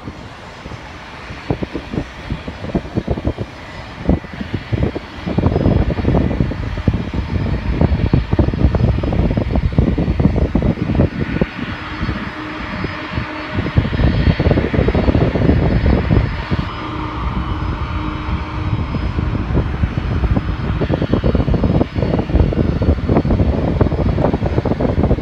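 A jet airliner's engines heard over heavy wind buffeting the phone's microphone. The engine rush swells around the middle and eases off near the end.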